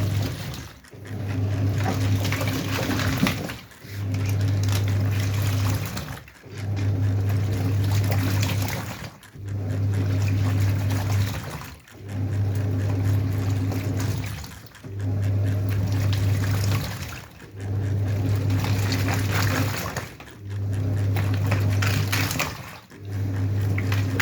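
Washing machine in its wash cycle: the wash motor hums and water churns in regular runs of about two seconds, stopping briefly between runs as the motor is switched on and off in turns, about nine times.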